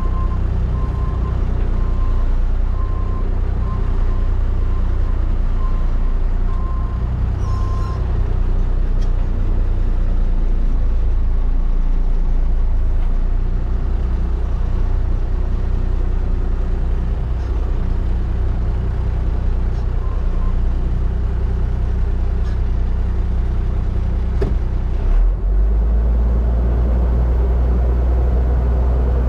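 Rollback tow truck's engine running steadily while it is moved, its reversing alarm beeping for the first several seconds. About 25 seconds in the engine note drops and changes.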